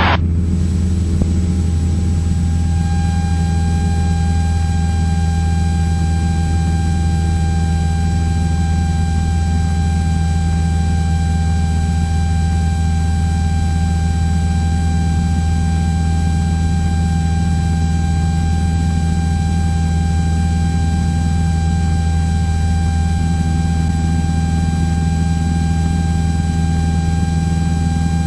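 Cessna 172's piston engine and propeller droning steadily in the cabin at climb power, with a thin steady high tone above it.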